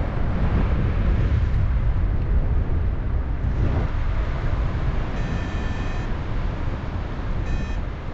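Wind rushing over the microphone in flight under a paraglider, a steady rumbling noise heaviest in the lows. Two electronic beeps cut through it, a longer one about five seconds in and a brief one near the end.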